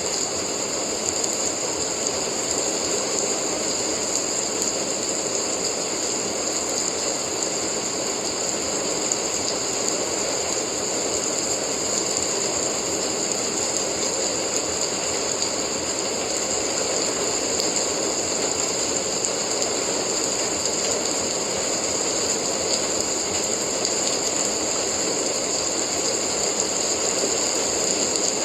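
Steady rain, an even, unbroken hiss that holds at one level throughout.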